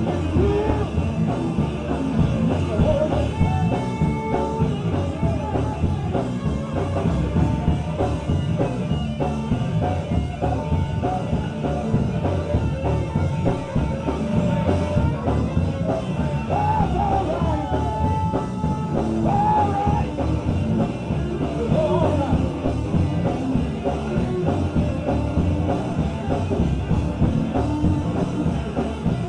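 Live gospel band playing with a drum kit, with voices singing over it.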